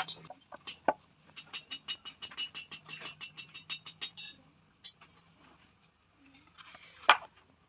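Rapid light taps on metal, about six or seven a second, each leaving a high ring, with a few single clicks before them and one sharp knock near the end.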